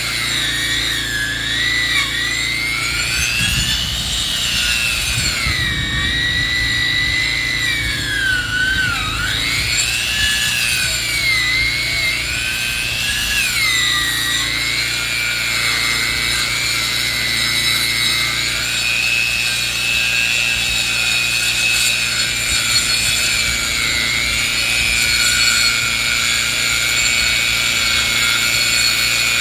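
Powered saw milling lumber from a log, running continuously under load; its whine wanders up and down in pitch as the cut goes on, then holds steadier in the second half.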